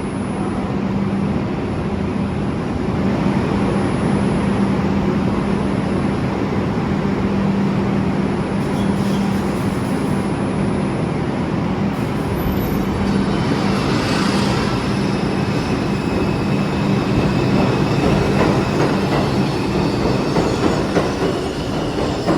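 New York City subway train (2 line) running at a station: a steady rumble with a constant low hum, and a brief high wheel squeal a little past halfway.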